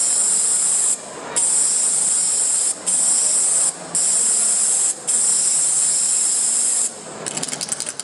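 Aerosol spray-paint can hissing in long sprays broken by short pauses, then rapid rattling near the end, like the can being shaken.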